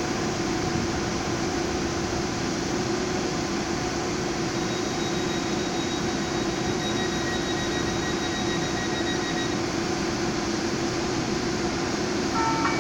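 Danhai Light Rail tram at the station giving a steady mechanical hum, with a thin high electric whine coming in about five seconds in and dropping out a few seconds later. Near the end a short pitched signal sounds, as the tram gets ready to pull away.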